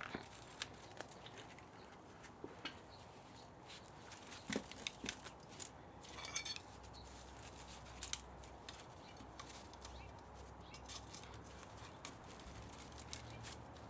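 Irregular light clicks and taps of hand tools and metal parts while an old spa motor is taken apart for scrap, with a short scraping rasp about six seconds in.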